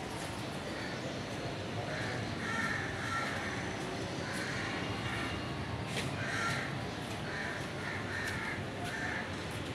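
A bird calling in a run of short repeated calls, about ten of them, beginning about two seconds in, over a steady background hiss.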